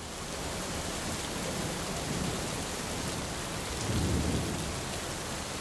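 Steady hiss of heavy rain falling, with a low rumble swelling about four seconds in.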